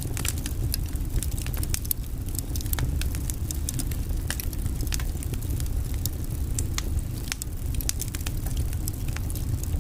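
Wood fire burning in a fireplace: many sharp, irregular crackles and pops from the logs over a steady low rumble of the flames.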